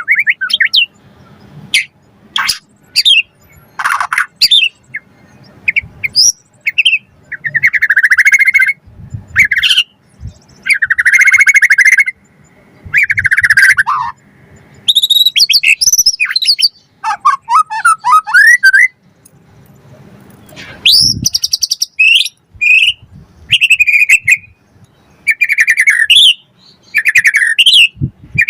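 White-rumped shama (murai batu) singing a loud, varied song in separate phrases with short gaps between them. The phrases mix buzzy rattling notes, clear high whistles, falling sweeps and quick chattering runs.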